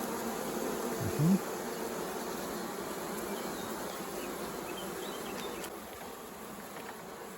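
Honey bees buzzing steadily around an open hive, with one louder buzz rising in pitch about a second in.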